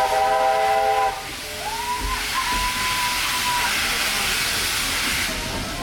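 Steam locomotive whistles over loud steam hiss: a chord whistle of several notes sounds for about a second, then a single-note whistle rises and holds for about two seconds. The hiss drops away near the end.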